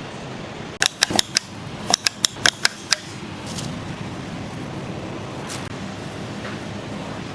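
About ten sharp clicks in two quick runs over a steady background noise, then the steady noise alone.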